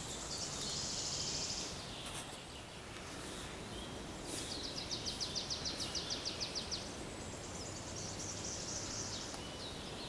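Songbirds singing: high trilling phrases near the start and again near the end, and a rapid, even trill of sharp repeated notes lasting a couple of seconds midway, over a steady background hiss.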